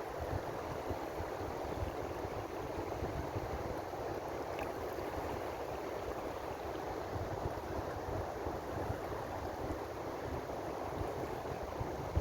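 Ocean waves washing on the shore in a steady, continuous rush of surf.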